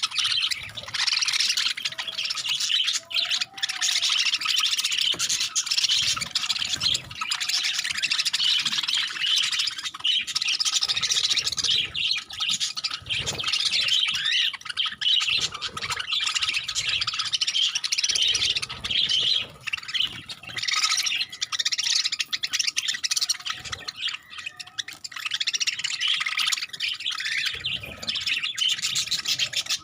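Budgerigars chattering continuously: a dense mass of high chirps and warbles from several birds, with scattered soft low knocks and rustles.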